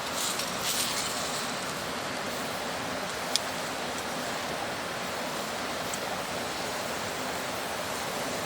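Steady rushing of a mountain stream. A few brief crackles come near the start, and one sharp pop about three seconds in.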